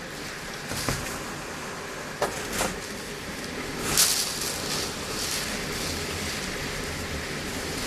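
Typhoon wind and rain: a steady rushing noise that swells in hissing gusts, the strongest about four seconds in, with a couple of sharp knocks a little after two seconds.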